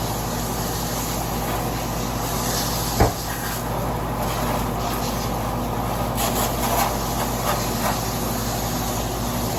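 Air-conditioning condenser unit running with a steady hum, while acid coil cleaner is sprayed onto its dirty coil with an uneven hiss. A single sharp click about three seconds in.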